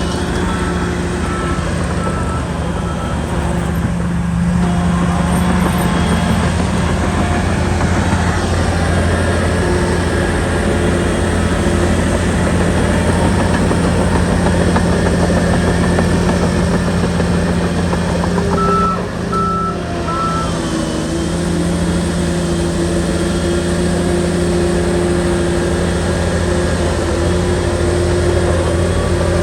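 Shantui bulldozer's diesel engine running steadily at working revs. A reversing alarm beeps a few times near the start and three times about two-thirds through.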